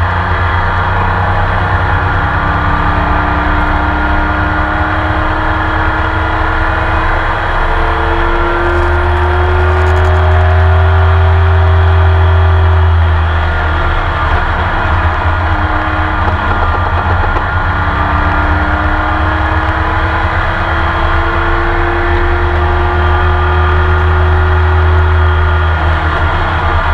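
Onboard sound of a Porsche 911 RSR's flat-six racing engine under full throttle. It climbs slowly in pitch through two long pulls, and each pull ends in a sudden drop in revs and level.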